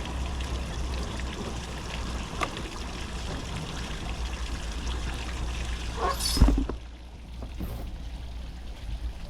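Water pouring and splashing steadily, then stopping about two thirds of the way through with a sharp knock.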